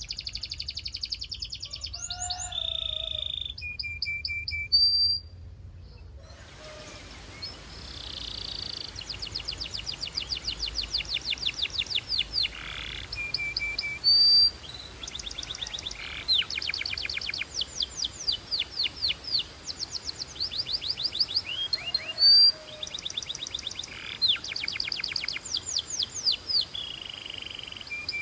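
Belgian canary singing: long, fast trills of rapidly repeated high notes, broken by short whistled notes and brief pauses. A few short notes about 5, 14 and 22 seconds in are louder than the rest.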